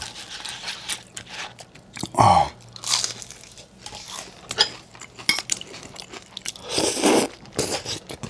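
Close-miked crunching and chewing of crisp battered Korean fried food (twigim), a run of sharp irregular crunches.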